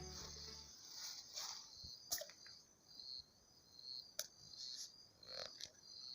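Faint insects chirping: a high, pulsing trill repeating about twice a second, with a few soft clicks. The tail of background music fades out at the start.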